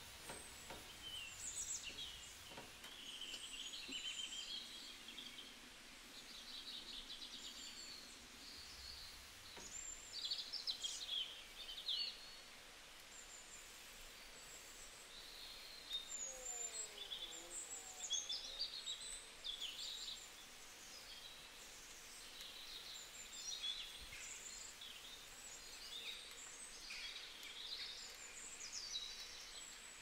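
Faint birdsong: scattered short chirps and trills that come and go over a low background hiss.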